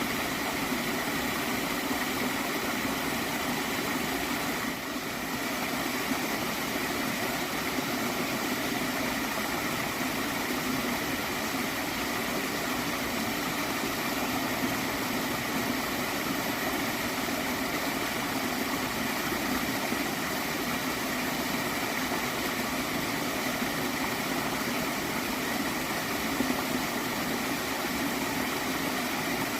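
Shallow stream of water flowing and gurgling steadily.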